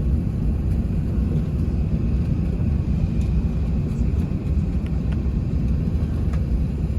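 Airbus A380 landing: a steady low rumble of engines and rushing air with no change through the stretch.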